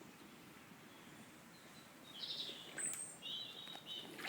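A bird calling outdoors: a few short high chirps and trills in the second half, over a faint steady background hiss.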